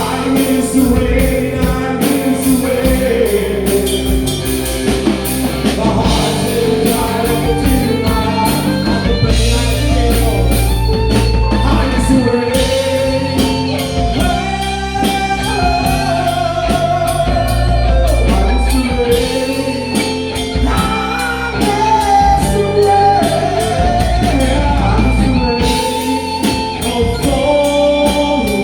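Rock music: a voice singing a gliding melody over electric guitar, bass and a drum kit.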